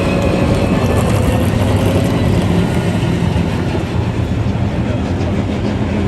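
Aircraft flying past overhead: a loud, steady roar with a low drone that eases slightly towards the end.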